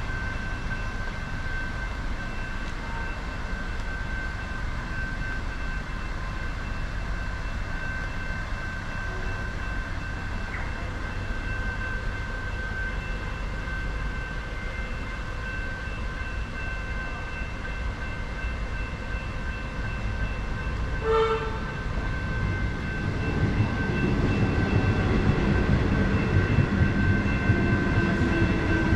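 Steady low rumble of a train or tram running close by, with a short high beep about two-thirds through; the rumble grows louder near the end, with slowly falling tones.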